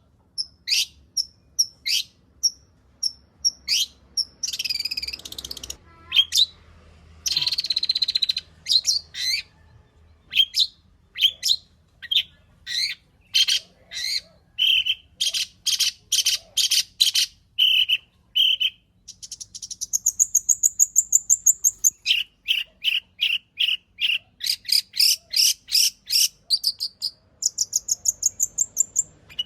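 Long-tailed shrike (cendet) singing a long, varied song full of mimicked phrases. It runs as quick series of short, high repeated notes, with scratchy harsh phrases around five and eight seconds and a fast high trill around twenty seconds.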